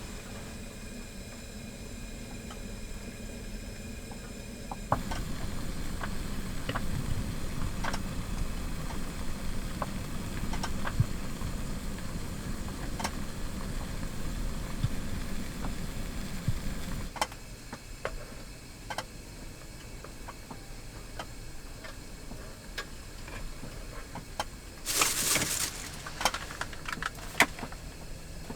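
Low rumble of strong wind buffeting the parked car, with scattered small clicks and knocks from things being handled inside. The rumble grows about five seconds in and drops away after about seventeen seconds, and a short loud rustle comes near the end.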